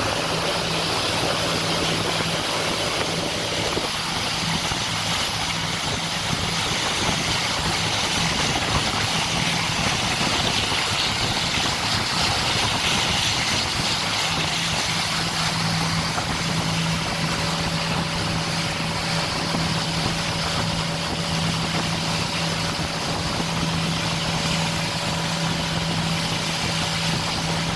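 Motorboat under way: a steady engine hum under a constant rush of wind and water.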